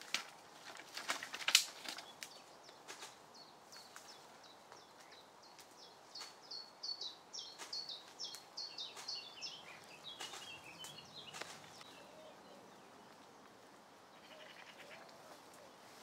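A few sharp knocks and clicks in the first two seconds, the loudest about a second and a half in. Then a songbird sings a quick run of repeated high, falling notes for several seconds, ending in a lower chatter.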